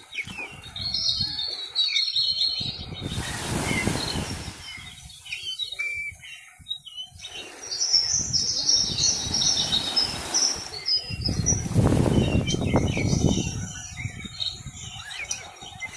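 Small birds chirping and twittering, with two spells of rushing noise, once a few seconds in and again past the middle.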